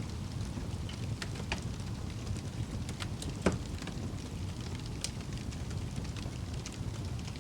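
Wood fire burning in a fireplace: a steady low rumble of flames with scattered sharp crackles and pops. The loudest pop comes about halfway through.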